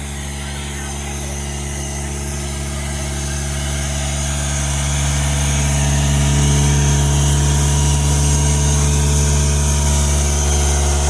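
Car engine idling steadily with an even, unchanging pitch, growing louder over about the first six seconds and then holding.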